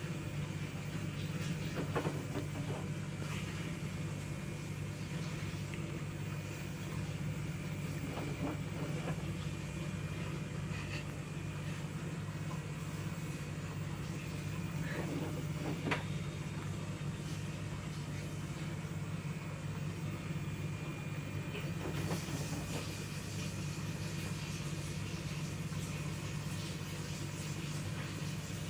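LG AI DD Steam F2T9GW9P washing machine running its spin cycle: a steady low hum from the direct-drive motor and drum, with a few faint knocks.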